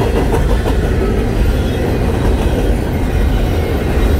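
Double-stack intermodal train's loaded well cars rolling past: a steady, loud rumble of steel wheels on rail, with a few faint clicks in the first second.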